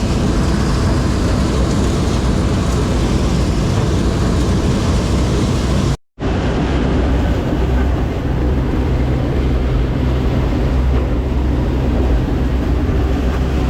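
Combine harvester running steadily while harvesting maize: a loud, constant engine hum under dense mechanical noise. The sound cuts out for a split second about six seconds in.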